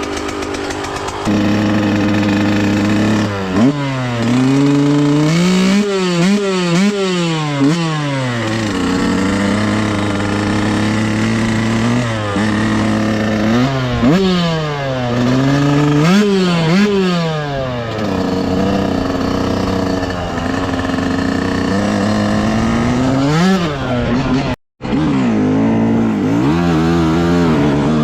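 Dirt bike engine running under riding load, its pitch rising and falling again and again as the throttle is opened and closed. The sound cuts out for a moment about three seconds before the end.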